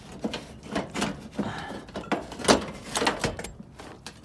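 Irregular knocks and clanks of boxed metal door hardware, hinges and door handles, being handled and shifted about, roughly a dozen sharp hits.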